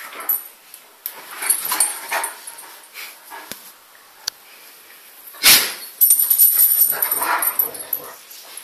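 Dogs making short whimpering and yipping sounds in a run of brief outbursts. The loudest comes about five and a half seconds in, followed by a couple of seconds of denser, high-pitched sound.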